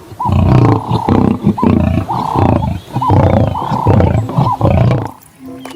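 Lion roaring: a run of several deep roars that cuts off suddenly about five seconds in.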